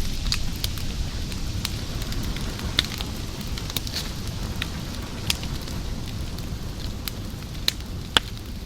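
Fire crackling over a low steady rumble, with irregular sharp pops, a couple of them louder near the end.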